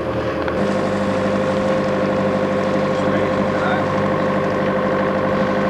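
A boat's engine running steadily, a constant hum with a change in its low end about half a second in.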